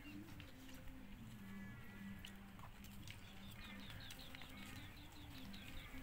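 Faint farmyard ambience: small birds chirping, with a quick run of high chirps at about six a second in the second half. Under it runs a low steady hum, with a few light clicks.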